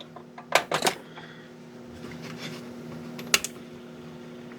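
Small drive motor of a fake aquarium (Seabed World-style lamp) running with a steady low hum, freshly lubricated. A few sharp clicks of parts being handled come near the start, and another comes about three seconds in.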